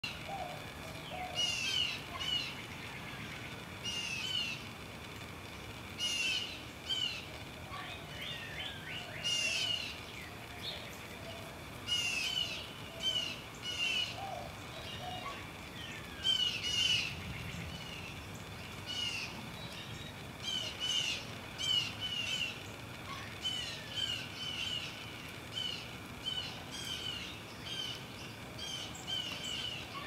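Songbirds singing: short, high chirping phrases repeated about every two seconds.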